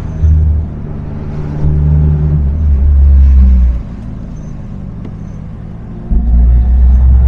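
Car engine running and being revved in spells: a short blip just after the start, a longer held rev, a drop back to a lower, quieter run, then revs held again near the end.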